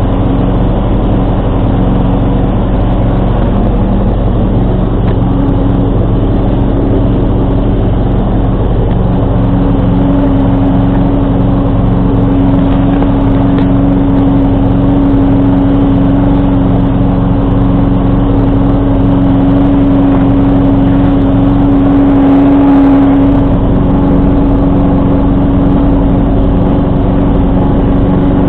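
John Deere 445 garden tractor engine running steadily at working speed while driving a 47-inch snowblower, a continuous hum with a strong steady tone that swells a little about two-thirds of the way through.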